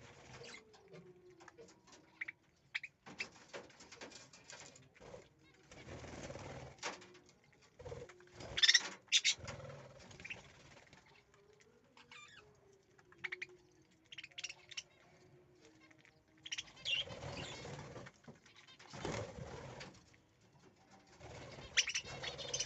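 Pet budgerigars chirping and chattering on and off, with the loudest chirps about nine seconds in, mixed with bursts of rustling and low gliding calls.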